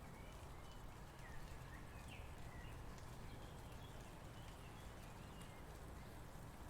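Faint bird chirps, short scattered whistles that slide up or down, over a low steady hum.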